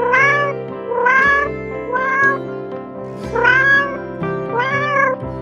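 A cat meowing five times, about once a second, each call rising then falling in pitch, over steady background music.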